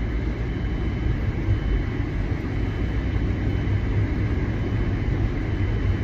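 Steady low rumble of a car heard from inside the cabin: engine and road noise, with no distinct events.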